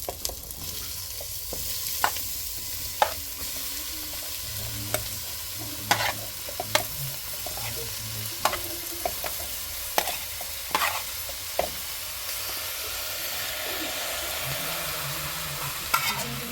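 Sizzling, as of food frying in hot oil, with irregular sharp pops and crackles over a steady hiss.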